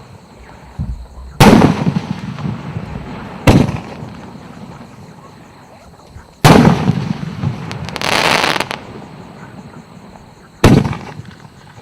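Professional 100 mm firework battery firing its shells: four loud booms a few seconds apart, each dying away slowly, with a smaller bang about a second in and a short burst of hissing crackle around eight seconds in.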